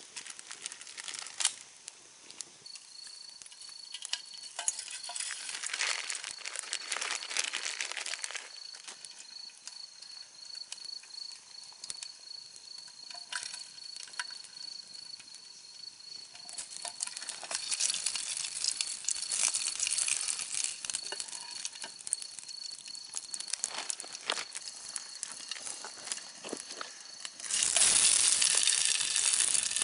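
Wood campfire crackling with scattered pops, and food sizzling over it. A thin steady high tone runs from a couple of seconds in, and a louder hissing rush starts near the end.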